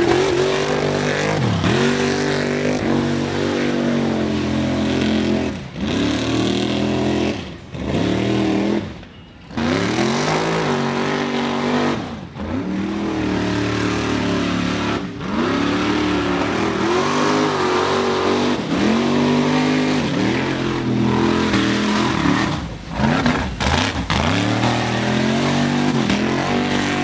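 Mud truck engines revving hard, the pitch climbing and falling back over and over, as the trucks throttle through the mud pit. The sound breaks off abruptly several times and picks up again.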